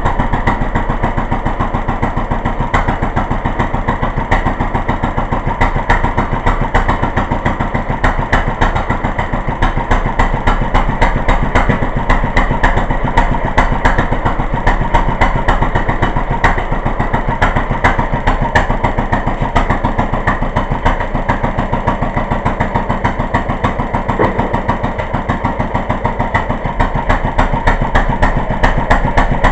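1936 International Harvester LA single-cylinder, water-cooled stationary engine running steadily at its governed speed, with an even, unbroken beat of firing strokes. It is throttle governed rather than hit-and-miss, so it fires every cycle and never coasts.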